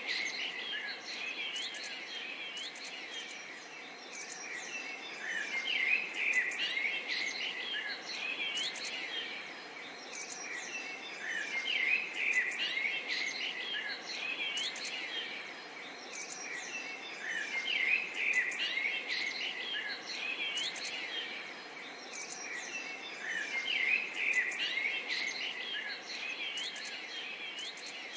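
Several songbirds chirping and calling in quick overlapping phrases, the chorus swelling and easing about every six seconds over a faint steady background hiss.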